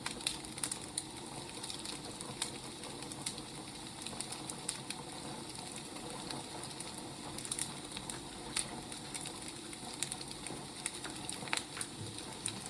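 Firewood burning, crackling: irregular sharp pops and snaps over a soft, steady hiss.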